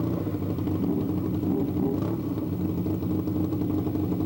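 A vehicle engine running steadily at a constant speed, a low, even drone with no revving.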